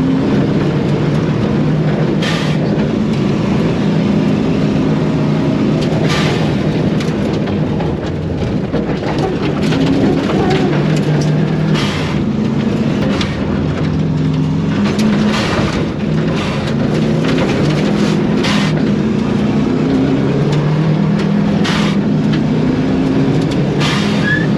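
Rally car's Subaru EJ25 flat-four engine heard from inside the cabin at full effort on a lap, repeatedly rising in pitch and dropping back through gear changes. Sharp cracks and knocks at irregular intervals come over the engine.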